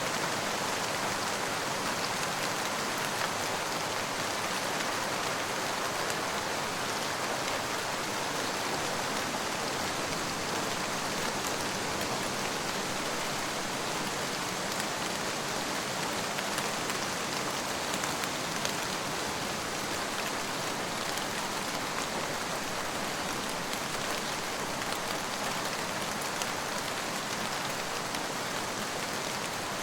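Steady, even rain falling and pattering on surfaces, with a dense hiss and faint scattered drop ticks.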